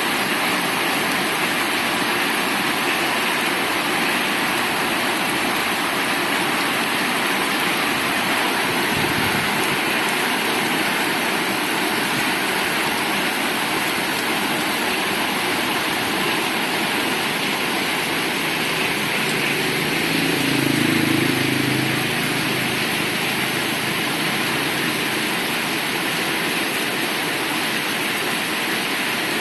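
Heavy rain falling steadily, a dense, even hiss. A low hum swells briefly about two-thirds of the way through.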